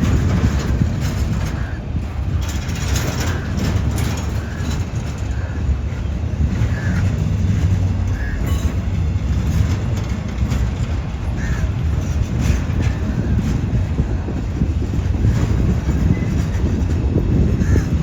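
Diesel-hauled freight train of container wagons rolling by, a steady low rumble with wheel clicks and a few short high squeaks from the wheels.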